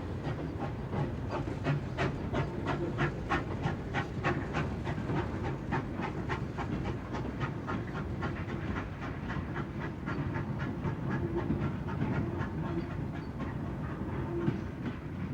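GWR 0-6-0 pannier tank steam locomotive hauling a freight train, its exhaust chuffing in a quick, steady rhythm over the rumble of the train, the beats growing fainter in the second half.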